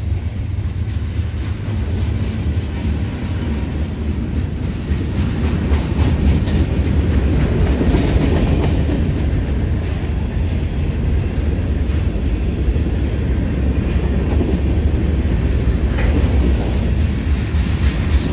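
A Union Pacific manifest freight train rolling past. It makes a steady, heavy rumble, with the wheels clicking over the rail joints.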